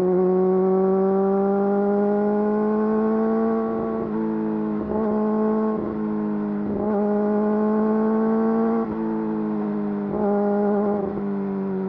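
Yamaha YZF-R6 inline-four engine running through an Akrapovič full exhaust system under way. It holds a steady note that slowly rises in pitch, broken several times by short interruptions from about four seconds in.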